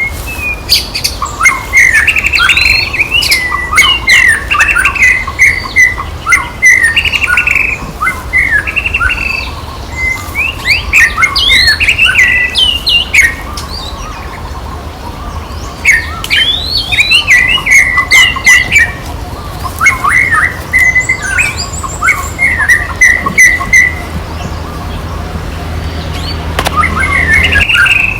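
High-pitched chirping and squeaking animal calls, many short rising and falling notes in long runs, broken by two pauses, over a steady low hum.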